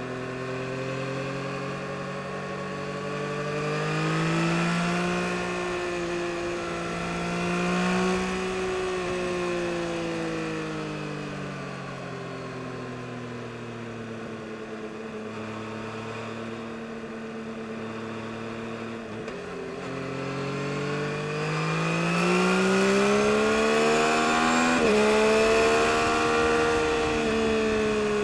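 Yamaha MT-09 SP's inline three-cylinder engine pulling on the move. The revs climb a few seconds in, hold, ease off to a steady cruise, then climb again in the second half, with a brief break in the note near the end. Wind and road rush run underneath.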